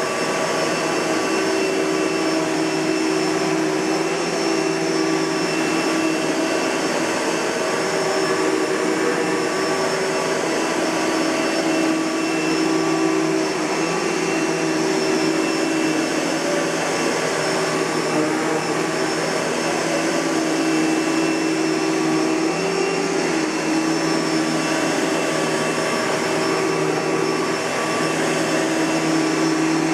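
Panasonic-built Kenmore Progressive bagged upright vacuum cleaner running steadily: a constant rush of air under a motor whine made of several steady tones.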